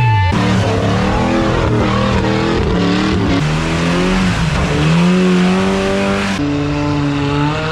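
Off-road rig engines revving up and down and holding at high revs, in three spliced clips with abrupt cuts.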